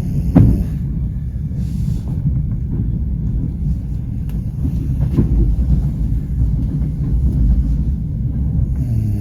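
Passenger train running on the rails: a steady low rumble of wheels and carriage, with a sharp knock about half a second in and another about five seconds in.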